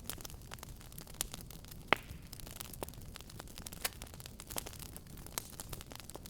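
Fire burning in a fireplace, crackling with irregular sharp pops over a low steady rumble, one loud pop about two seconds in.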